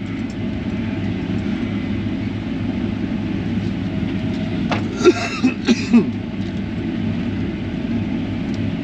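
Combine harvester running steadily under load, a constant engine and machinery drone heard from inside the cab. A few short sharp sounds come through about five seconds in.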